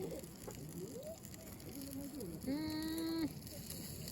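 A person's wordless voice: short rising and falling vocal sounds, then a held hum of about a second starting around two and a half seconds in, with faint light clicks around it.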